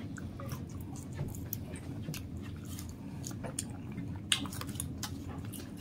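People chewing french fries and gyro meat close to the microphone: soft, scattered mouth clicks and smacks, over a steady low background hum.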